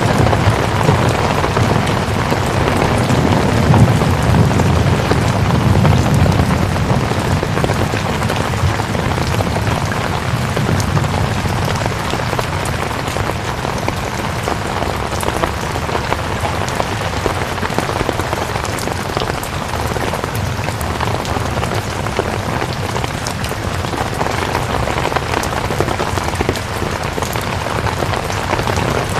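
Steady, dense rainfall with a continuous patter of drops. It is a little louder and fuller in the low end for the first several seconds, then settles to an even hiss.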